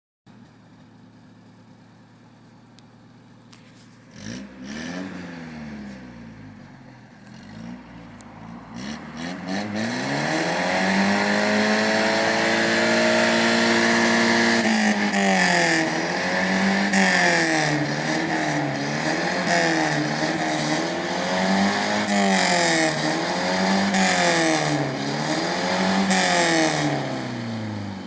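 Exhaust note of a 1996 Ford Maxi's non-turbo 2.0 petrol engine. It idles quietly, blips once about four seconds in, then revs up and holds high for several seconds. After that it is revved up and down over and over, about every second and a half, and drops back near the end.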